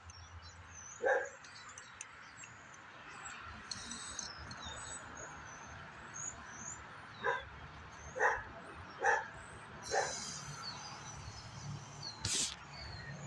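A dog barking: once about a second in, then four barks in a row, roughly a second apart, around the middle. A short hiss follows near the end.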